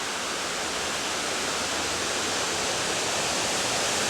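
Large waterfall pouring: a steady, full rush of falling water that grows slowly a little louder.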